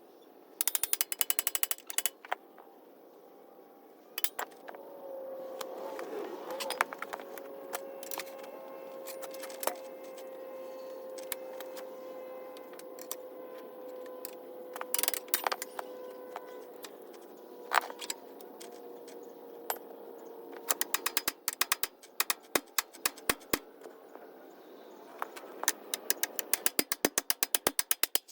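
Hand ratchet wrench clicking in quick bursts, with scattered metal knocks between them. A faint steady tone runs from about five seconds in until about twenty-one seconds.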